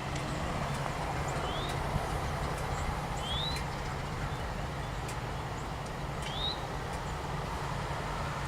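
Steady low rumble of diesel locomotive engines running. A bird gives a short rising chirp three times, a couple of seconds apart.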